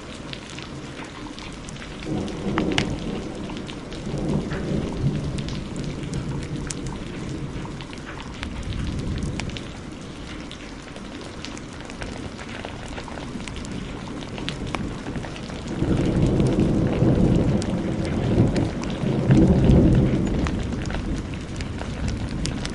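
Steady heavy rain with sharp crackles from a wood fire scattered through it. Thunder rolls twice: a rumble about two seconds in, and a longer, louder one from about sixteen seconds.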